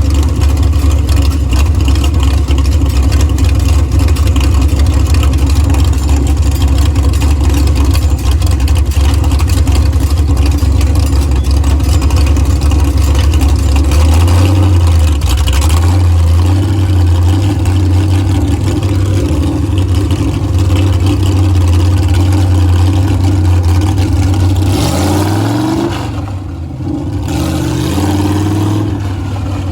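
Monster truck engine running with a heavy low rumble. Its pitch shifts from about halfway, then climbs in a few quick revs near the end.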